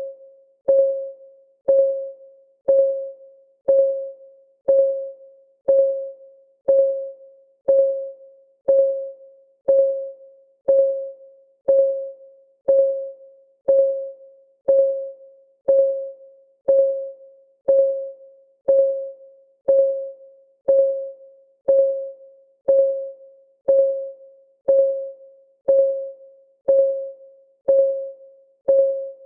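Ticking clock sound of a countdown timer: a sharp tick about once a second, each ringing briefly on one clear mid tone, with a fainter tick between.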